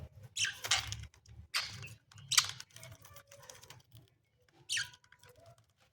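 Pet budgerigars giving short, sharp chirps, four or five over a few seconds, among small clicks and scratches.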